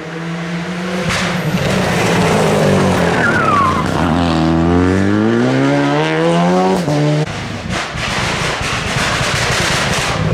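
Rally car's engine at a corner: the revs fall to a low point about four seconds in, then climb steadily as it accelerates out, with tyre squeal. The engine note cuts off abruptly about seven seconds in, leaving a rough, noisy rush.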